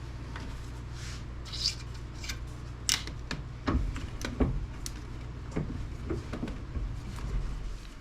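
Plastic housing of a small appliance being pried and worked apart by hand: scattered clicks, knocks and short creaks as the parts strain and give, over a steady low hum that drops away near the end.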